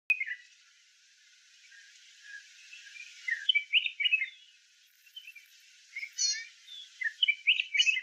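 Birds chirping in several quick bursts of short, bright notes over a faint hiss, busiest in the second half; a sharp click at the very start.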